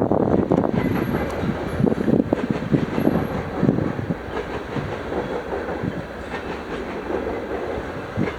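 Railroad cars rolling past, wheels clacking in an irregular run of knocks over a steady rumble that slowly grows quieter.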